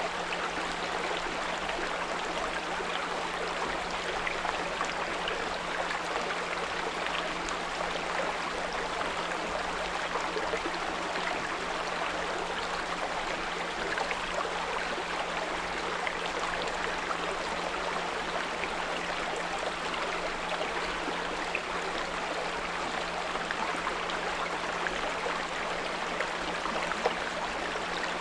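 Small brook babbling and trickling steadily, with a steady low 174 Hz pure tone mixed in underneath.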